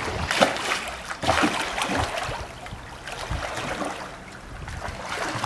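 Water splashing in a swimming pool, with several sharp splashes in the first two seconds and quieter water noise after.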